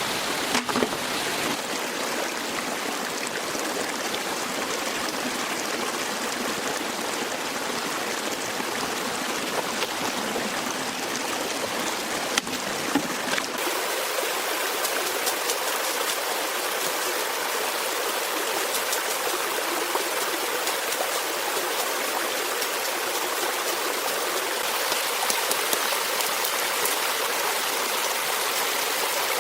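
Stream water flowing steadily, an even rushing with no letup. A couple of small clicks come about halfway through, after which the sound changes slightly, losing some of its low end.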